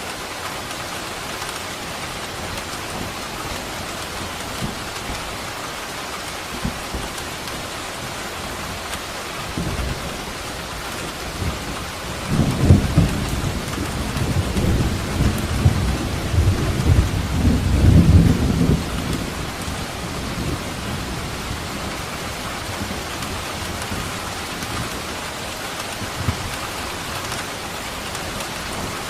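Steady rain hiss with a roll of thunder that builds about ten seconds in, rumbles loudest for several seconds, then fades back to the rain.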